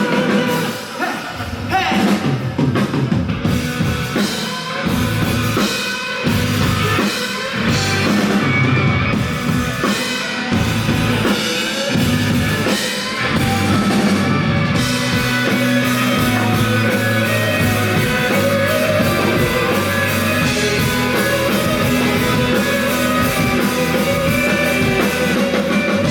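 Live rock band playing an instrumental passage: drum kit with steady hits, bass and electric guitars, loud throughout.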